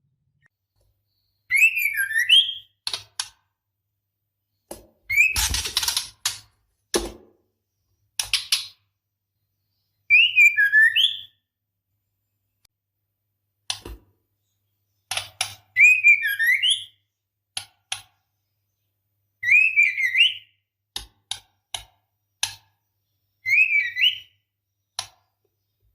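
Female white-rumped shama calling: short whistled phrases that glide up and down, mixed with dry clicking rattles and one harsher rasp, repeated every few seconds with silent gaps between. It is the call of a female in breeding condition calling for a male.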